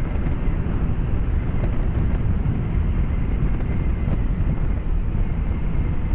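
BMW K1200S motorcycle's inline-four engine running steadily at road speed, mixed with wind rush, heard through a microphone inside the rider's helmet.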